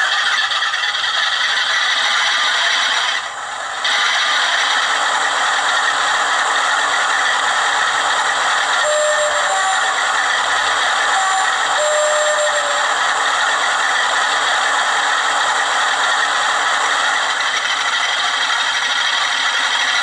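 Hornby TTS sound decoder in an OO-gauge Bachmann Class 47 model playing a Class 47 Sulzer diesel engine running, a steady clattering engine sound through a small iPhone speaker. There is a short dip a little over three seconds in, and a few faint short tones near the middle.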